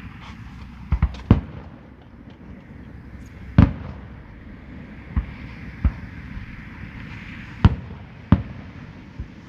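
Fireworks display: about nine sharp bangs at irregular intervals, the loudest and longest a little over three and a half seconds in.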